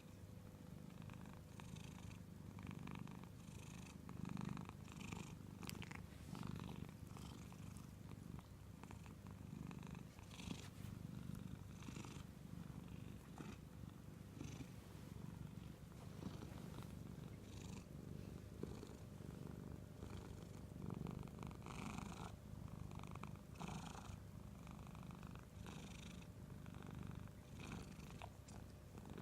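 Domestic cat purring steadily at close range, the purr swelling and easing about every two seconds; a relaxed cat resting on a lap.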